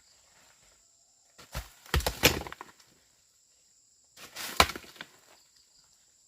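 Two clusters of sharp chopping strikes a couple of seconds apart, the loudest single blow in the second cluster.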